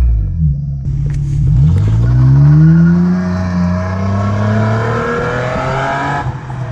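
2016 Nissan Maxima's 3.5-litre V6 running through a muffler-deleted exhaust. The revs dip briefly, then rise steadily for several seconds under acceleration, and the sound cuts off suddenly near the end.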